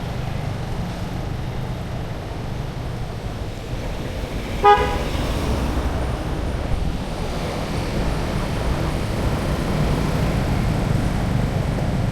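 Steady street traffic rumble, with one short toot of a vehicle horn about four and a half seconds in.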